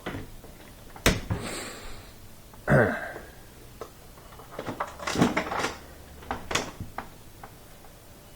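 Handling noise from dishwasher parts and tools: a sharp knock about a second in, a short scraping squeak near three seconds, then a run of light clicks and knocks.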